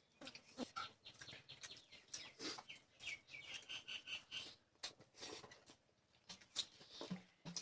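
Close-up eating sounds: quiet chewing, mouth smacks and small clicks coming irregularly. About three seconds in there is a brief high chirping sound.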